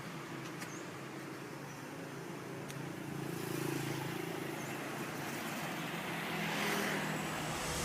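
Road traffic: car engines running and passing, swelling slightly about four seconds in and again near the end.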